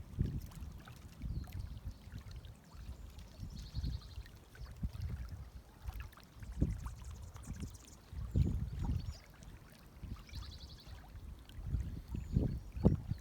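Outdoor wind rumbling in irregular gusts on the microphone. Two short, high, rapid trills, a few seconds in and again about ten seconds in.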